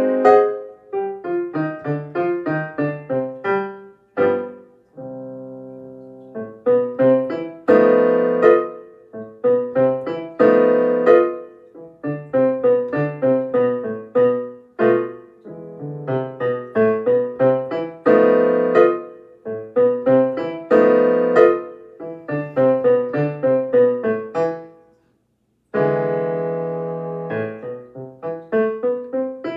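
Piano playing an elementary-level minor-key solo in quick successions of short notes. A chord is held about five seconds in, and after a short break near the end a loud chord rings out.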